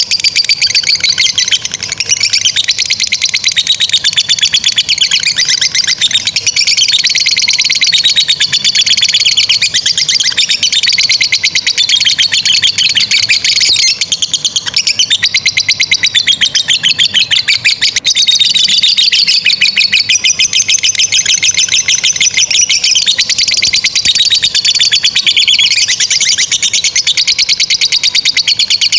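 Lovebirds in long, unbroken 'ngekek' song: very rapid, high chattering trills that run on without pause, rising and falling in pitch.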